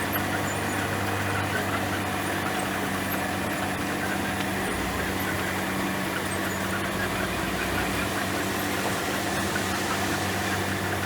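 Komatsu bulldozer's diesel engine running at a steady, even pitch, with a little added low rumble in the middle.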